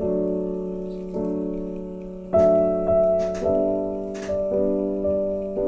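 Background piano music: slow chords struck about once a second, each ringing and dying away.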